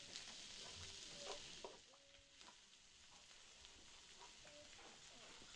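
Faint crackling hiss with scattered clicks and a few brief high chirps.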